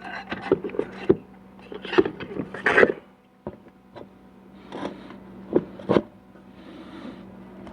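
Irregular metal clicks and knocks with some scraping as a 4L80E transmission pump and its gasket are handled and lined up in the case, a drill bit in the bolt hole serving as a guide.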